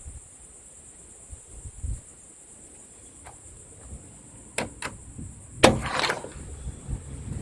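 A door latch and handle clicking twice, then a sharper knock as the house door is opened or shut, about five and a half seconds in.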